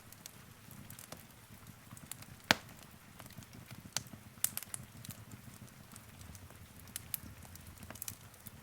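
Wood fire burning in a fireplace, crackling: irregular sharp pops and snaps, one loud pop about two and a half seconds in, over a low steady rumble of flame.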